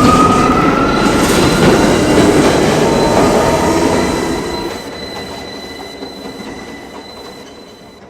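R179 subway train running on the F line, with a squealing tone from the wheels near the start over rumbling wheel noise. The sound fades steadily over the second half as the train moves away.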